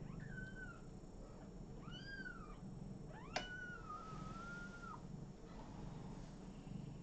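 Kitten mewing three times: two short, high mews, then a longer mew about three seconds in that lasts over a second. A sharp click comes at the start of the long mew.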